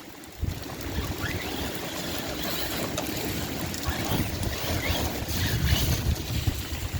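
6S Arrma Kraton RC monster truck driving on wet ground in the rain: splashing, hissing wheel spray with a faint rising motor whine now and then.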